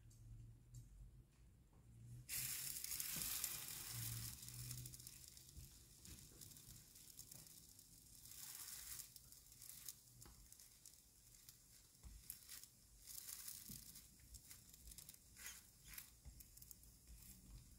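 A folded wrap sizzling in a hot nonstick frying pan as it is toasted: the sizzle starts suddenly about two seconds in, loudest at first, then settles lower and swells again a few times as the wrap is pressed with a spatula.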